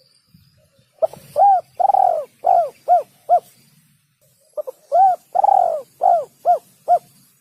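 A bird of the pigeon and dove family cooing in two phrases of about six notes each. Each phrase has a longer drawn-out note near its start, followed by quicker, shorter notes.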